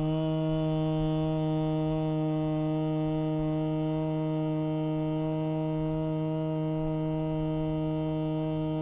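A man's voice chanting the Makara syllable "Mmm" as one long closed-lip hum, held on a single steady pitch, the final part of the A-U-M chanting meant to set up vibration in the head.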